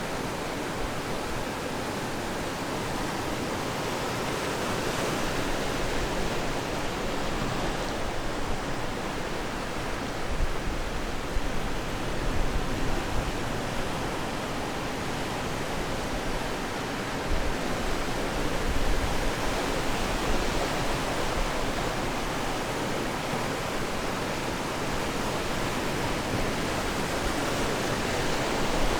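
Ocean surf washing steadily onto the shore, with waves swelling and breaking in a continuous rush.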